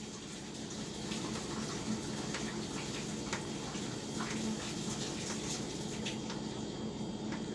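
Quiet room tone: a steady low hum with faint scattered clicks.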